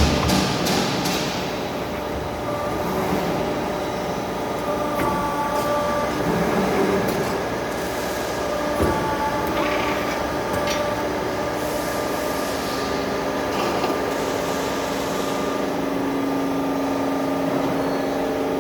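CNC tube bending machine running through its cycle: a steady mechanical hum with several held motor tones that shift as it works, a few sharp clicks and knocks, and a new steady low tone joining about two thirds of the way in.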